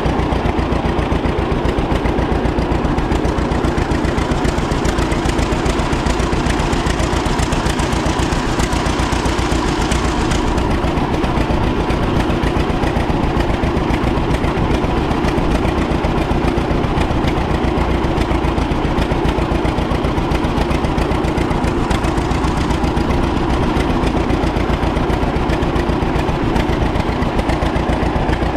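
1936 John Deere A's two-cylinder horizontal engine running steadily, with an even firing beat.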